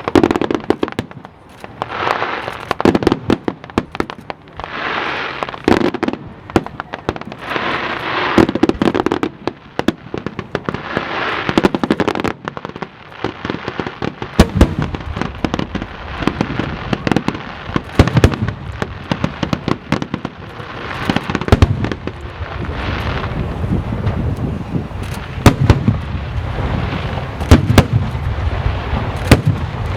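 Aerial fireworks display: shells bursting with sharp bangs, many followed by about a second of crackling. The bursts come every two or three seconds at first, then thicken about halfway through into a dense, rumbling barrage of bangs.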